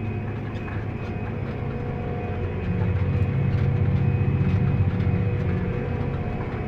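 Engine of a large tractor or similar heavy farm machine running steadily, growing louder about two and a half seconds in.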